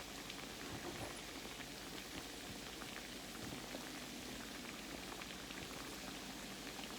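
Croquettes frying in oil in a pan: a steady sizzle full of small crackles and pops. They are on their first side, not yet flipped.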